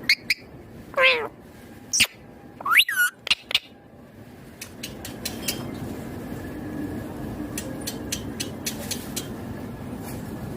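Indian ringneck parakeet giving a few short pitched calls in the first three seconds, one sliding steeply down in pitch, followed by a few sharp clicks. After that only a steady background hiss with scattered faint ticks.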